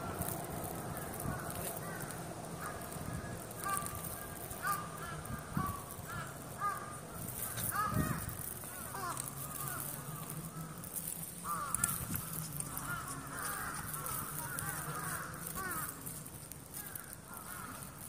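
Outdoor ambience with birds calling again and again in short, curved notes, over a low steady hum, with a short bump about eight seconds in.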